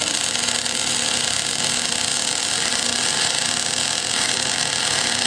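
A small electric blower motor running steadily: a strong airy hiss with a low, even hum underneath.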